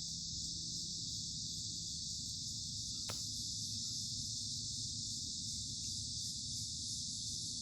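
Steady, unbroken chorus of crickets, a dense high-pitched trilling, over a low background rumble, with a single brief click about three seconds in.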